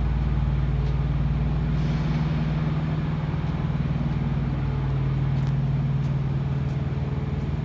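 A steady low machine hum with a pitched drone, unchanging throughout.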